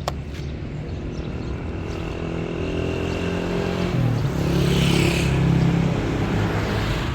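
A motor vehicle's engine running, growing louder to a peak about five seconds in and then easing off, as when a vehicle passes or accelerates.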